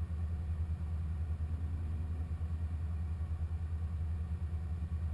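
Supercharged 6.2-litre LT4 V8 of a 2015 Corvette Z06 running steadily, a low rumble with no revving.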